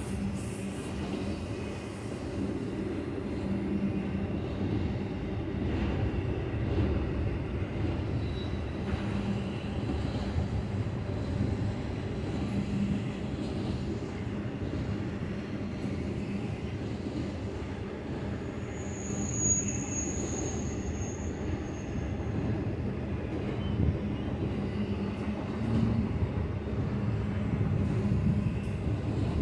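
Double-stack intermodal train of well cars rolling slowly past after starting to move again, a steady low rumble of wheels and rail. About two-thirds of the way through comes a brief high squeal.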